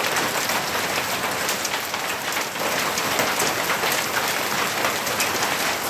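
Quarter-size hailstones falling hard, a dense steady patter of many small impacts.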